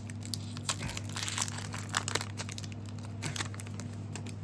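Foil trading-card booster pack wrapper crinkling as it is opened, a quick run of crackles that thins out after about three seconds, over a steady low electrical hum.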